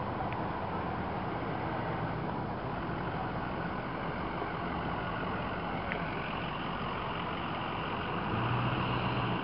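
Heavy fire truck engines running as the trucks drive past in a slow convoy, a steady mix of engine drone and road noise. A deeper engine hum swells for about a second near the end as a truck comes closer.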